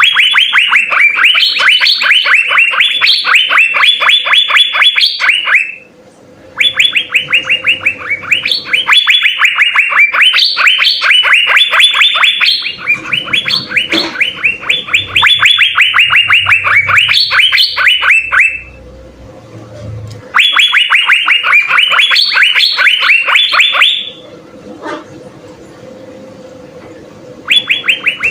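Asian fairy-bluebirds (cucak biru) singing: rapid runs of short, sharp, downward-sliding notes, about five a second, in long bouts with brief pauses between them.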